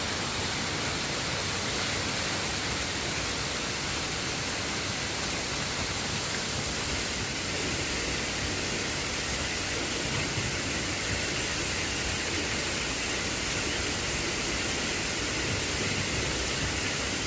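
Steady road and wind noise from a car driving, an even hiss with no distinct events.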